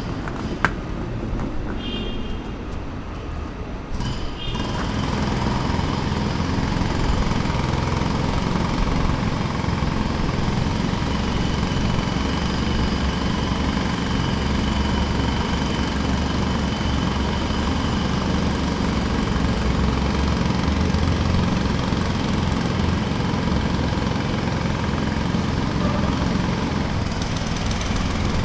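Construction-site jackhammer and engine running, growing denser and louder about four seconds in, with a single sharp click near the start.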